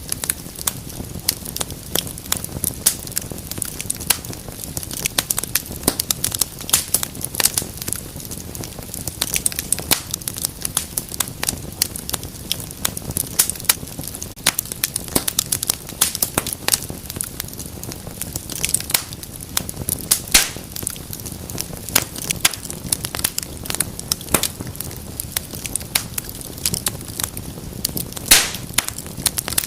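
Wood fire burning in a fireplace: dense, irregular crackling and popping over a low steady rumble of flame, with a few louder pops near the end.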